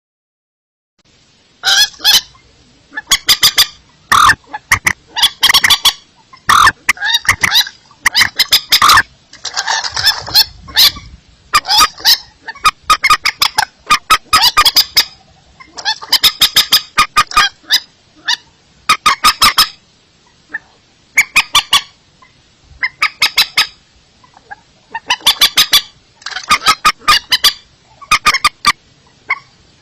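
Recorded lure calls of a paddy-field bird, such as a rail: bursts of rapid, harsh repeated notes in groups every one to two seconds, starting about a second and a half in.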